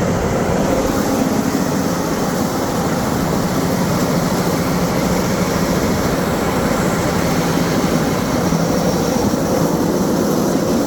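Steady engine drone under a constant loud rushing noise, unchanging throughout.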